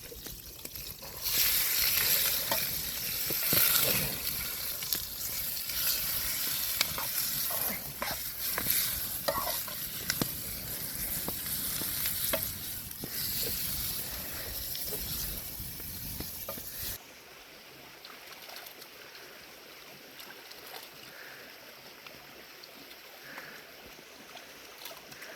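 Food sizzling in a hot pan while a utensil stirs and scrapes it with small clicks. After about sixteen seconds it cuts off abruptly to a quieter steady hiss.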